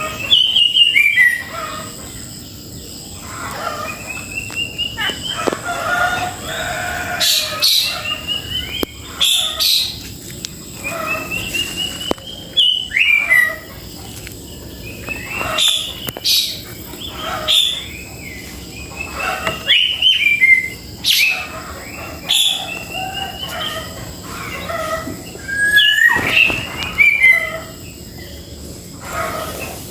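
Cucak jenggot (grey-cheeked bulbul) calling over and over: rising whistled notes every few seconds, mixed with harsh chattering and sharp clicks.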